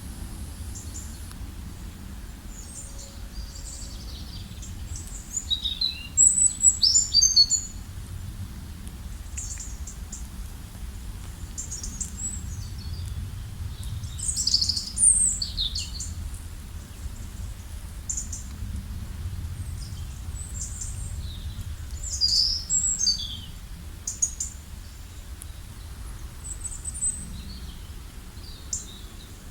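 Several songbirds chirping and singing in a forest: short high calls and trills, some overlapping, in several louder flurries, over a steady low background rumble.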